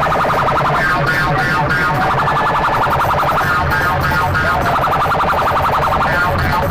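Loud DJ remix music played through big sound-system speaker boxes: a fast repeating high-pitched synth pattern over heavy bass.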